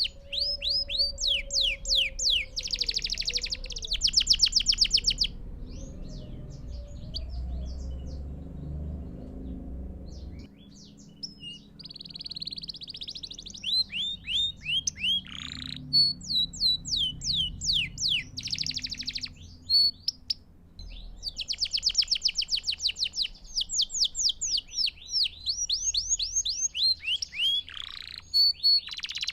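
Belgian canary singing: strings of repeated downward-sliding notes alternating with fast rolling trills. The song thins out for a few seconds about a third of the way in, then resumes.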